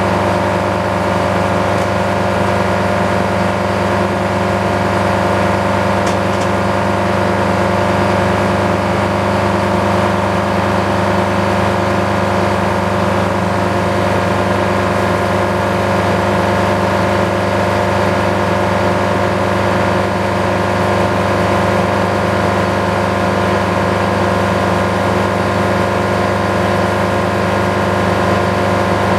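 Sawmill's engine running steadily at a constant speed while the blade cuts through a large cherry log.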